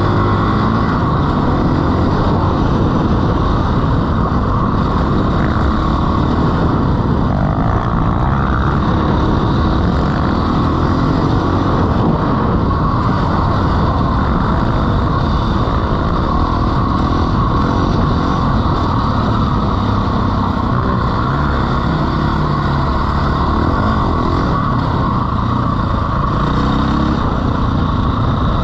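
Dirt bike engine running steadily while riding through sand.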